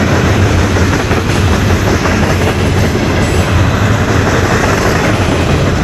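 CN freight train M397's cars rolling past on the rails: a steady, loud rumble of wheels on track.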